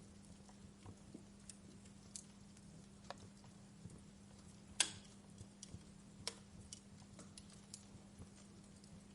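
Wood fire crackling: irregular sharp pops and snaps, the loudest about five seconds in.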